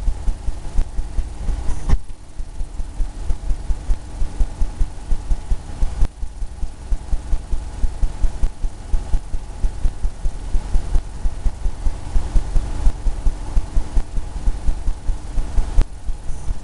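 Oil paint brush dabbing and scrubbing on a canvas: an even run of soft low thumps, about three a second.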